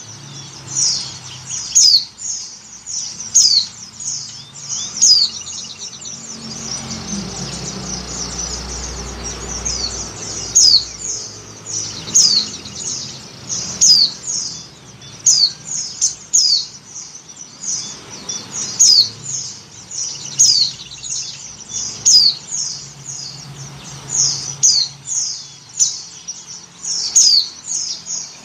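White-eye (pleci) calling over and over: short, high, downward-slurred chirps, about one to two a second. The uploader labels it a female in breeding condition calling for a male, a call used to lure white-eyes.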